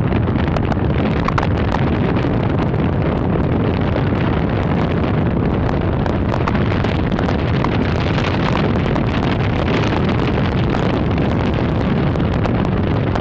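Loud wind buffeting the microphone of a camera held at the open window of a moving car, crackling steadily over the car's road and engine rumble.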